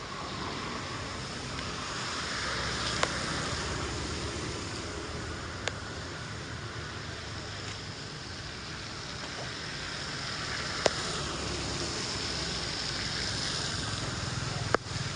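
Floodwater running steadily into a storm drain, with a few short sharp clicks or knocks.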